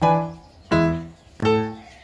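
Piano music: three chords struck about two-thirds of a second apart, each fading away before the next.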